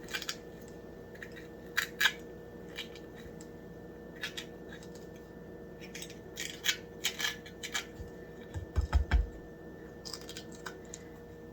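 Sweet peppers being cored by hand: scattered small crackles, snaps and taps as the centers and seeds are pulled out, with a few dull thumps about nine seconds in.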